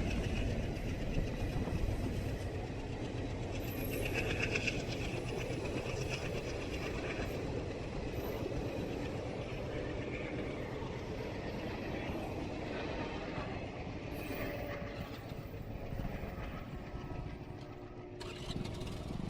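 Indian Railways train running along the track, a steady rumble of wheels and cars that grows a little quieter near the end.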